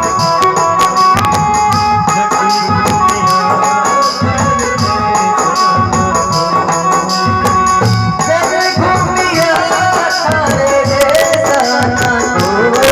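Instrumental break in a Rajasthani bhajan: hand drums beat a steady rhythm with jingling percussion over long held melody notes, and a wavering melodic line comes in about eight seconds in.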